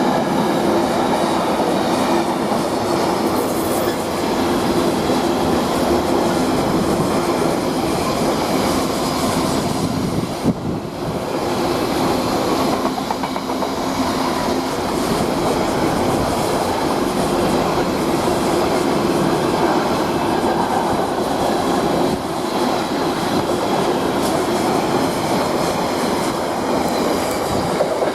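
Freight train hauled by a Class 66 diesel locomotive passing close by, its wagon wheels running over the rails with a steady loud noise that eases briefly about ten seconds in.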